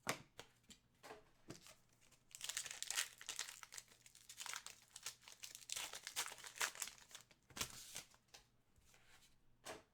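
Trading-card pack wrapper crinkling and tearing as it is opened, with small clicks of card handling. The crinkling runs from about two seconds in to near the end.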